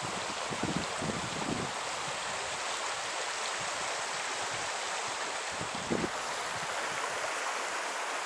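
Small trout stream's water rushing steadily, with a few brief low thumps near the start and again about six seconds in.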